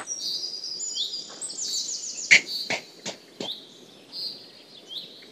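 Songbirds chirping and trilling: rapid runs of high, sweeping notes throughout. A few sharp clicks come in the middle, the first of them the loudest sound.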